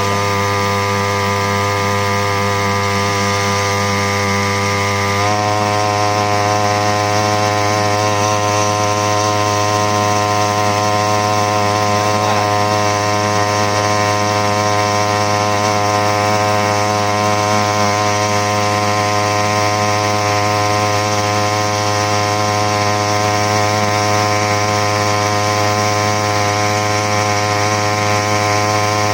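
Small 3 hp outboard motor running steadily. Its engine speed steps up slightly about five seconds in, then holds.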